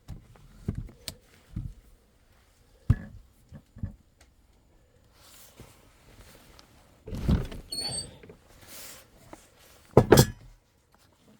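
Scattered knocks and thumps of objects being handled, followed by a couple of longer scraping, rustling bursts, the loudest about ten seconds in, with a short squeak among them.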